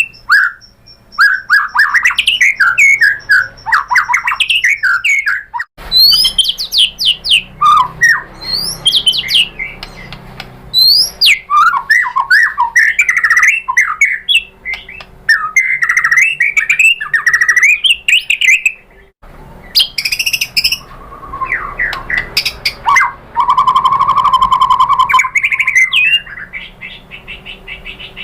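White-rumped shama singing a long, varied song of loud whistled phrases that glide up and down, broken by rapid chattering trills and a steady held whistle a little past the middle. The recording changes abruptly twice, like separate recordings joined together.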